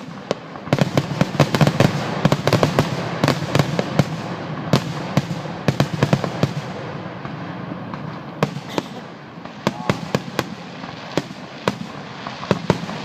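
Fireworks going off in a rapid, dense string of sharp bangs and crackles, thinning to scattered pops in the second half.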